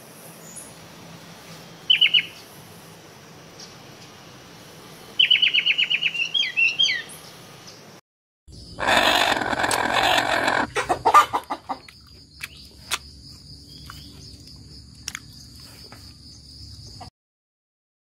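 A fiery-billed aracari calling: a short burst of sharp notes about two seconds in, then a rapid run of them a few seconds later. After a brief gap a rooster crows once, about two seconds long and the loudest sound here, followed by scattered clucks from hens over a steady high tone.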